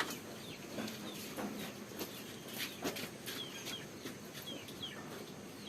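Chickens clucking, with short high chirps and scattered light clicks.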